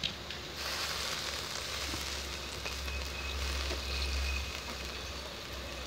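Ground spice paste and kenikir leaves sizzling in a hot aluminium wok, a steady hiss that grows louder about half a second in.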